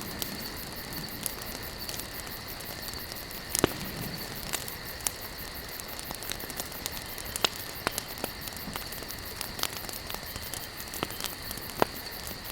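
Campfire burning: a steady hiss with frequent sharp crackles and pops from the burning wood, two louder pops about four seconds in and near the end.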